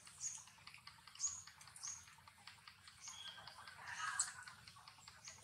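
Faint, short, high bird chirps repeating every half second or so, with scattered soft clicks.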